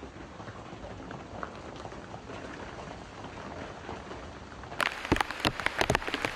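Steady rain with faint scattered drop ticks. About three-quarters of the way through it changes to many loud, irregular raindrop taps striking close by.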